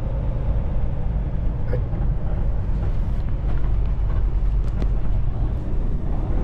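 Kenworth T680 semi truck heard from inside the cab while driving, its engine and the road making a steady low rumble as it pulls in a low gear.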